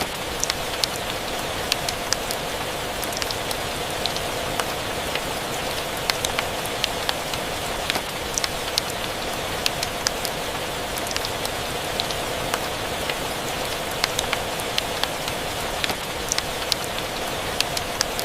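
Steady rain with scattered sharp ticks, a few a second.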